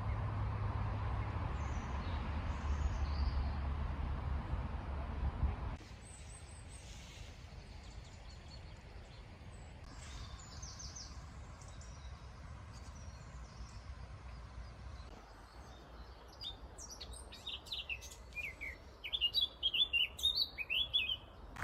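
A narrowboat's engine running steadily with a low hum, which stops suddenly about six seconds in. After that, quieter open-air ambience with birds chirping, the chirps coming thick and fast near the end.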